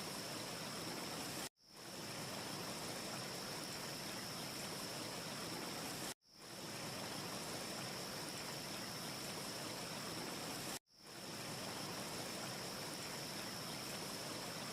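A steady rushing hiss of looped ambience noise with a faint, steady high whine. It cuts out abruptly three times, about one and a half, six and eleven seconds in, and fades back up within half a second each time as the short loop restarts.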